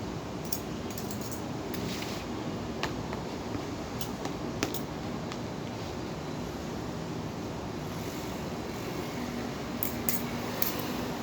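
A few scattered light clinks of a spoon and fork against a plate during a meal, over a steady background hum.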